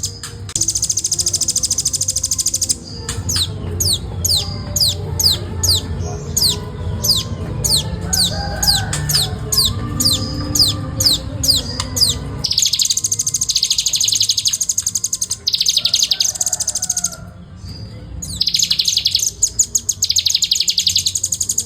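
Velvet-fronted nuthatch singing: fast, dense high trills, broken by a run of about two dozen sharply falling notes at roughly two and a half a second, then dense trills again.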